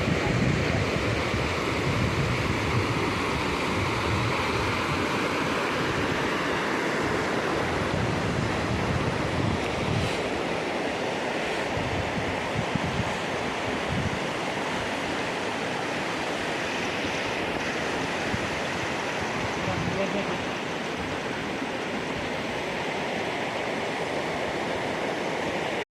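Fast-flowing water rushing steadily.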